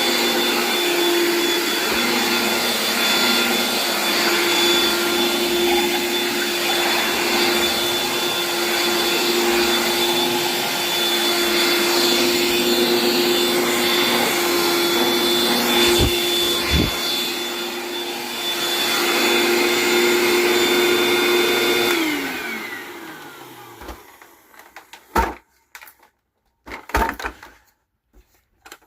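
Eureka The Boss SuperLight upright vacuum cleaner running steadily with a constant whine. About three-quarters of the way through it is switched off: the motor winds down in falling pitch, then a few sharp clicks and knocks follow.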